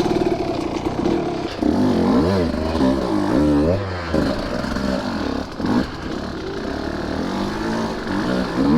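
Two-stroke dirt bike engine of a Husqvarna TE150, revved up and down over and over with the throttle as it rides rough ground. A short clatter of knocks comes a little past halfway.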